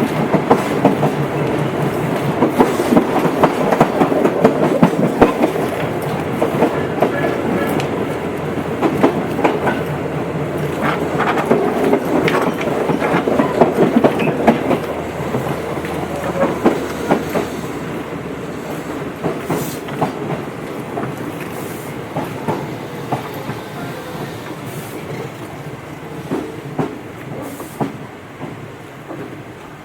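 Tobu 8000 series electric train running, heard on board, with wheels clicking over rail joints. In the second half the noise gradually falls away as the train slows.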